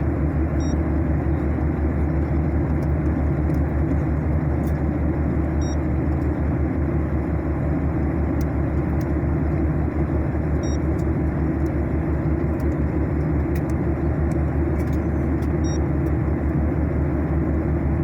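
Steady airliner cabin noise in flight: the low rumble and rush of the jet engines and airflow. Faint short high beeps recur about every five seconds.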